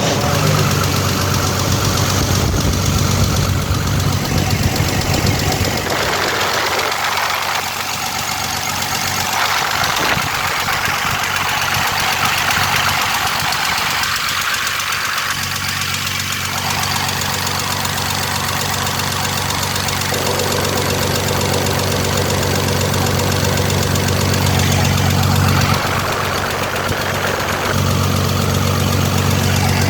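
Freshly overhauled Cummins 6BT 5.9-litre inline-six diesel engine running steadily at idle. For several seconds in the middle its low note fades beneath a higher hiss, then comes back.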